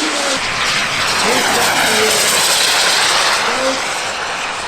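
Radio-controlled model aircraft flying past, a loud rushing engine noise that swells to a peak mid-way and eases off near the end.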